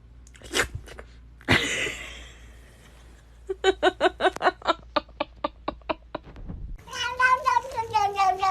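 A domestic cat calling: a quick run of short, clipped cries at about four or five a second, then a long drawn-out yowl that starts near the end and sags slightly in pitch. Two sharp knocks come in the first couple of seconds.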